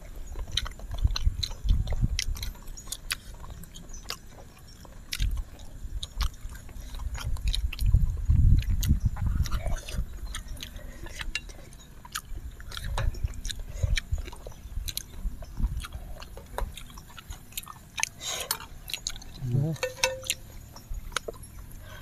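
Close-miked chewing and eating sounds: irregular soft low thumps of mouths working on food, with many light clicks of chopsticks and wet mouth sounds.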